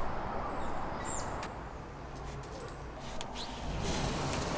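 Outdoor ambience: a steady background hiss with a few short, high, falling bird chirps, one about a second in.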